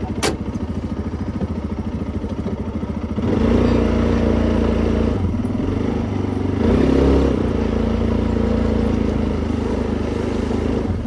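A vehicle engine running with a rapid, even putter, then louder and steadier from about three seconds in. There is one sharp click near the start.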